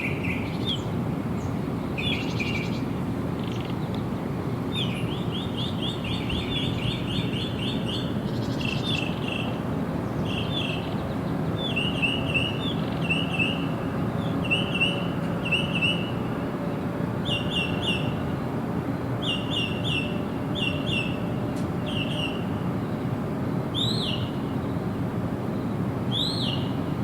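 Songbirds chirping in quick clusters of short, high notes, with a couple of upward-sweeping calls near the end, over a steady low background rush.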